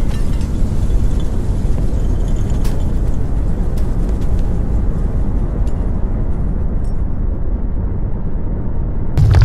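Deep, steady rumbling noise, with a louder surge starting just before the end.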